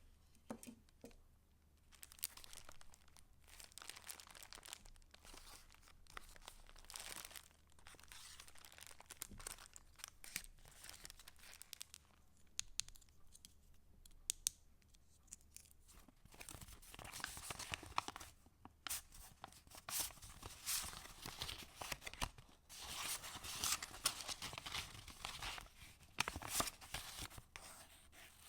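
Paper pages of a handmade junk journal rustling and crinkling as they are handled and turned, with small clicks and taps among the rustle. It grows busier and louder in the second half.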